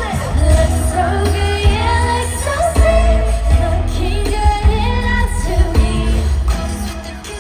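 Live K-pop song played loud over a concert PA, with women singing over a heavy bass beat that comes in at the start.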